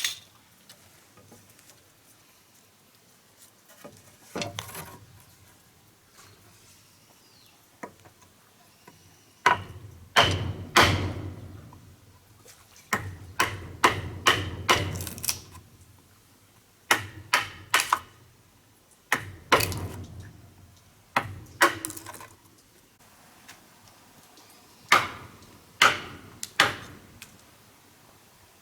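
A hand tool striking wood in irregular sharp knocks, some single and some in quick runs of several blows, with pauses between.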